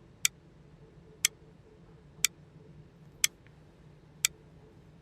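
Clock ticking: five sharp, even ticks exactly one second apart, over a faint steady low hum.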